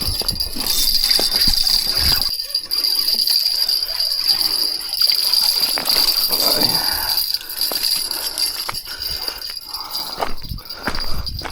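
A hooked fish being reeled in and landed: irregular clicks, rattles and splashes of the tackle and the fish, over a steady high-pitched whine.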